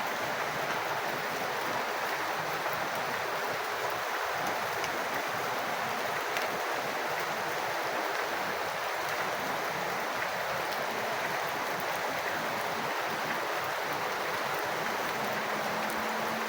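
Steady rain falling with running rainwater, a dense, even wash of water sound with occasional faint drop ticks.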